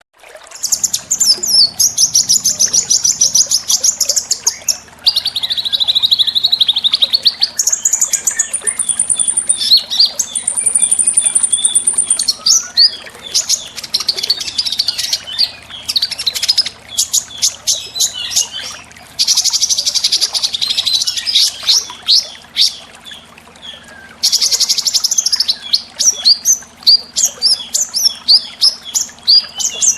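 Small songbirds singing a string of high-pitched chirps and fast trills, phrase after phrase, each phrase a few seconds long and changing in pattern. It is a masteran recording of small-bird calls, played to caged songbirds for them to copy.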